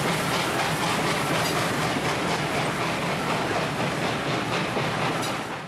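Train running on rails, wheels clattering steadily, fading out near the end.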